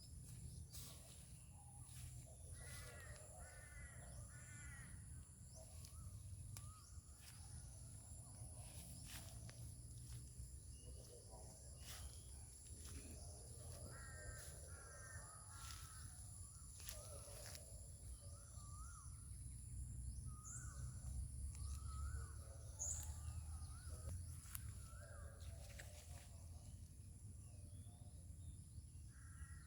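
Birds calling in short runs of about three notes, repeated every few seconds, with a steady high-pitched whine underneath.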